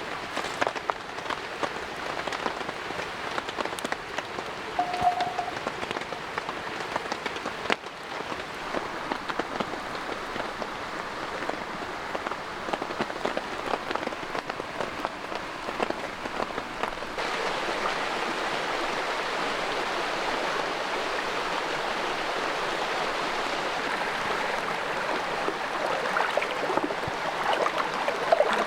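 Steady rain falling, a dense patter of many small drops, growing somewhat louder about two-thirds of the way through.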